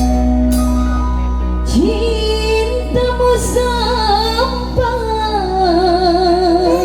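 Dangdut song with a steady bass and held accompaniment; a woman's voice comes in about two seconds in, sliding into long held notes and ending on a wavering vibrato.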